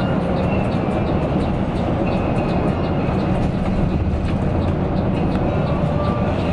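Mercedes-Benz OC 500 RF 2542 coach under way: a steady rumble of engine and road noise, with a faint rapid ticking above it.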